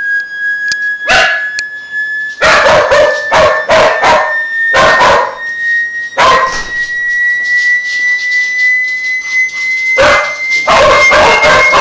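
Dogs barking in repeated bursts at a loud, steady hearing-test tone that slowly rises in pitch. There is a lull of several seconds in the middle where only the tone is heard, and then the barking resumes near the end.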